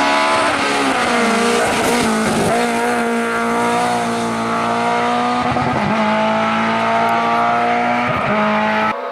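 Lada 2107 rally car's engine running hard at high revs, its pitch held high with four brief dips and recoveries. The sound falls away abruptly near the end.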